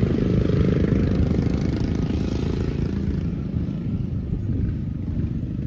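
Small single-cylinder engines of racing lawn mowers running on the track, a rough, low engine drone that fades somewhat through the middle as the field moves away.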